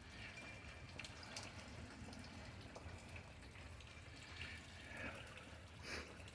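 Faint rain dripping and trickling during a thunderstorm, with scattered drops landing.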